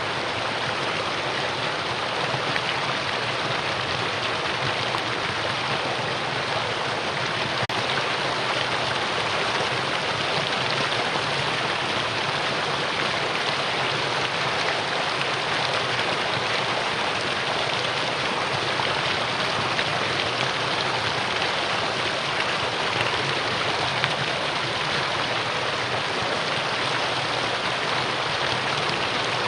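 Mountain valley stream rushing over rocks: a steady, unbroken wash of running water.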